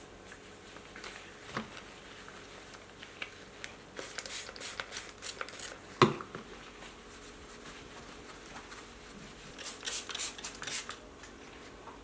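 Self-adhesive vinyl interior film being worked by hand: two runs of short, crisp snips and crackles, with a single sharp knock in between.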